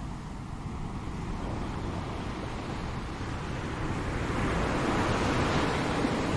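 Ocean waves washing on a shore: a steady rush of surf that ebbs early and builds again as the next wave comes in during the second half.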